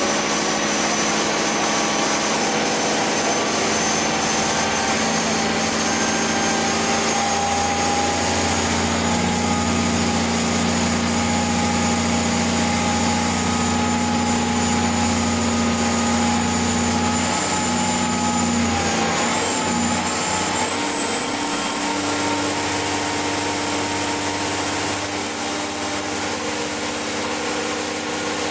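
Twin Yuchai YC6T480C marine diesel engines running steadily under way, with a thin high whine that slowly climbs in pitch and a shift in the engine note about two-thirds of the way through.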